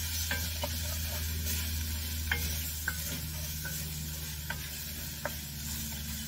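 Onions and tomato paste sizzling in a Dutch oven as they are stirred with a wooden spatula, with short scrapes of the spatula against the pot every second or so.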